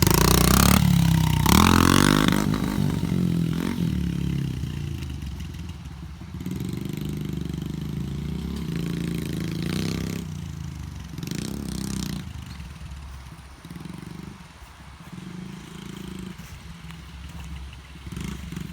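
Small dirt bike engine revving loudly as it passes close by, its pitch sweeping, then running farther off and fading, rising and falling with the throttle.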